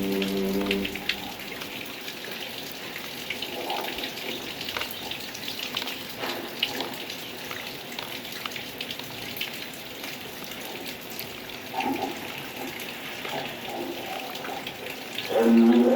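Rain falling, a steady patter of many small drops. A held musical tone fades out about a second in, and music comes back in near the end.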